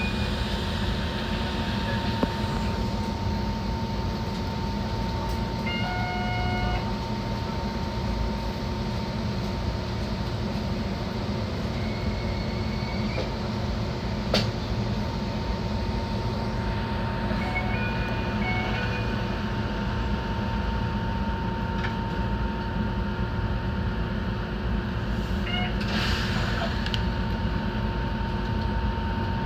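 Enoden electric train running steadily along the line, heard from inside: a constant rumble of wheels and motors with a thin steady tone. A few short high beeps sound now and then, and there is one sharp click about halfway through.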